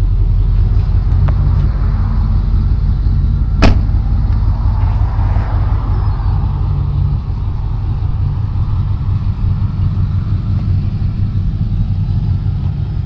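1990 Chevy 2500 pickup's engine idling steadily, with a single sharp click about three and a half seconds in.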